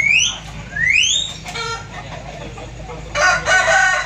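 Roosters calling: two short, sharp rising squawks in the first second or so, then a rooster starts a loud, drawn-out crow about three seconds in.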